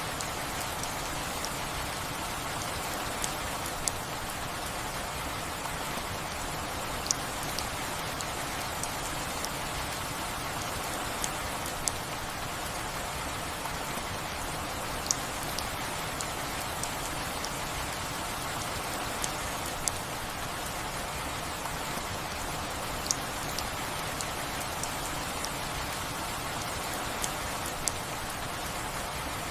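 Steady rain falling, with sharp ticks of single drops striking nearby at irregular moments every second or two.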